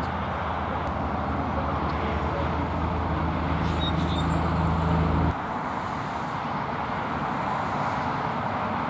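A vehicle engine hums low and steady over road traffic noise, then cuts off abruptly about five seconds in, leaving the traffic noise.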